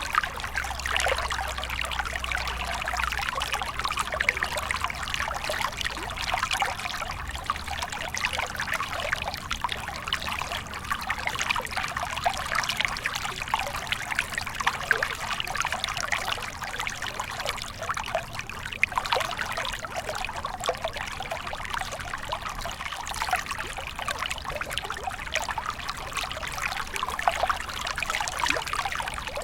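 Stream of water flowing and trickling steadily over stones, a continuous babbling splash with no pauses.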